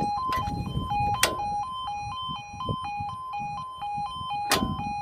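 Level crossing audible warning alarm: a two-tone electronic 'yodel' switching rapidly back and forth between two pitches, sounding as the crossing is closed for an approaching train. Two sharp knocks stand out above it, about a second in and near the end.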